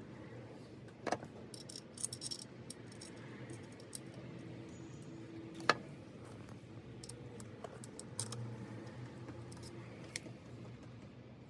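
Small metal tools and parts clinking and jingling during hand work, with scattered sharp clicks; the loudest is a single click about six seconds in.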